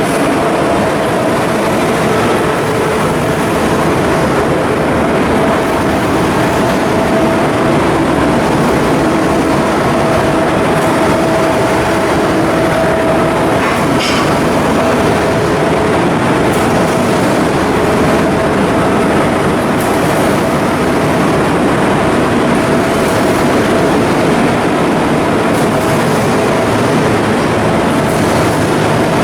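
Steady, loud machinery noise with a constant hum, unbroken throughout.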